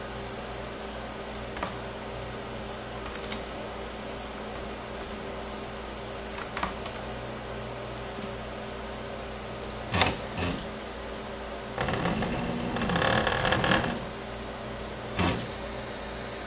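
Homemade CNC router's stepper motors humming steadily while holding position, with scattered clicks. About twelve seconds in, the motors drive an axis for about two seconds, a louder whine that rises and falls in pitch.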